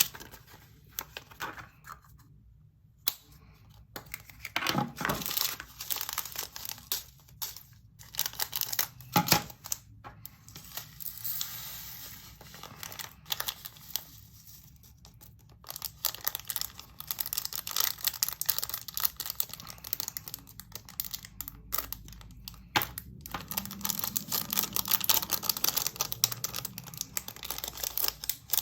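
Small plastic bags of diamond-painting drills being handled and torn open, rustling, with irregular sharp clicks of plastic.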